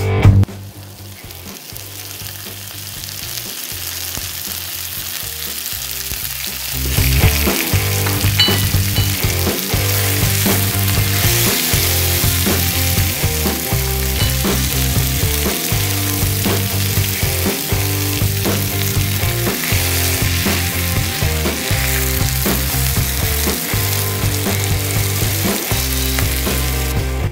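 Tempering for dal frying in hot oil in a small cast-iron pan: cumin seeds, then chopped onion and spices, giving a steady sizzle that grows louder about seven seconds in. A silicone spatula stirs the pan.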